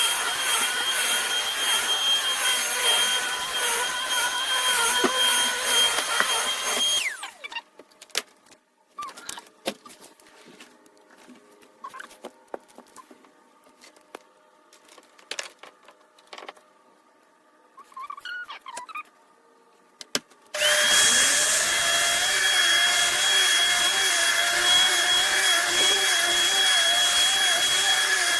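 Upright vacuum cleaner running over carpet with a steady high whine, switched off about seven seconds in, followed by scattered handling clicks and knocks. About two-thirds of the way through, a second upright vacuum, the Shark Vertex AZ2002, is switched on, its motor spinning up quickly and then running steadily.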